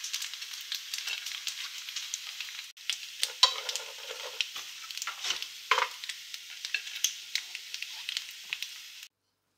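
Rice crackers made from pressed cooked rice shallow-frying in a little oil in a nonstick pan, sizzling and crackling steadily as they turn golden and crisp. A few louder knocks come as the crackers are lifted out, and the sizzle cuts off suddenly near the end.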